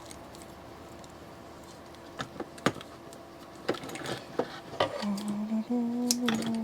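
Electrical tape being handled and wrapped around a fan switch: scattered light clicks and rustles, then a short low steady tone in two steps near the end as tape is pulled off the roll.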